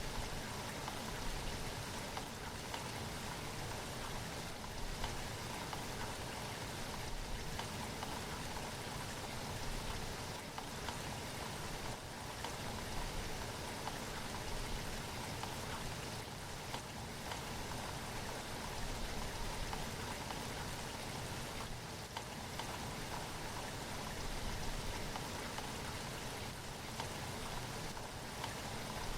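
Steady rain falling, an even hiss with faint patter of drops hitting a surface.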